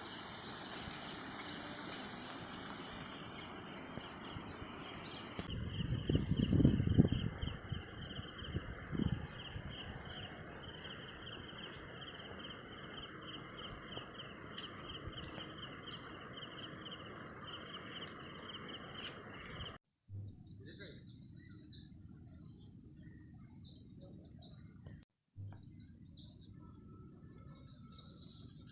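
Insect chorus of cricket-like chirring: steady high-pitched trilling with a faster pulsing note underneath. A low rumble comes in about six to seven seconds in and again briefly a few seconds later. The sound breaks off twice in the second half and resumes with a steadier, lower-pitched trill.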